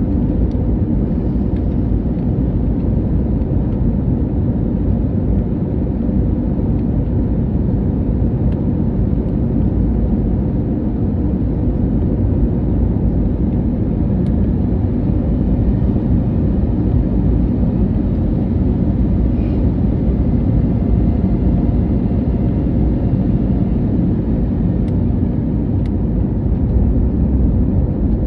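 Steady cabin noise inside an Airbus A321neo: an even low rumble of engines and airflow, with no change in level.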